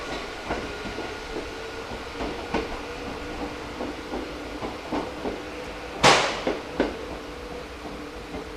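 Hakone Tozan Railway electric train running slowly, its wheels clicking irregularly over rail joints, with a faint steady hum. A loud metallic clank comes about six seconds in.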